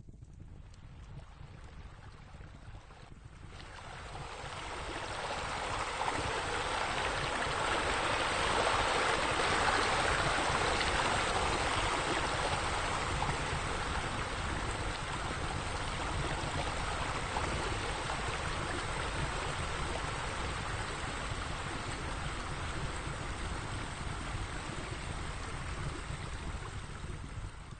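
Sheet of water falling from a pool's rain-screen water feature, a steady rushing splash that swells in from about four seconds in and then holds.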